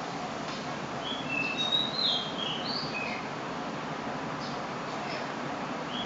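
A DAI TO SHI 56-inch ceiling fan running with a steady rushing noise. A bird chirps a quick series of short high notes between about one and three seconds in.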